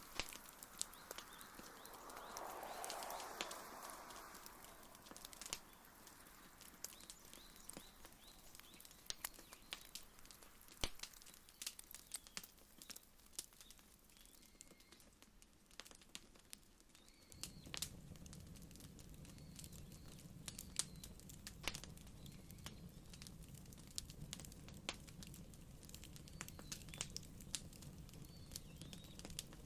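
Wood fire crackling, with sharp pops and snaps scattered irregularly throughout. A low steady hum comes in abruptly a little over halfway through.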